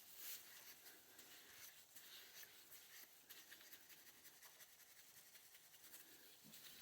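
Faint, irregular scraping and rubbing as carbon is scrubbed off an oil burner part by hand.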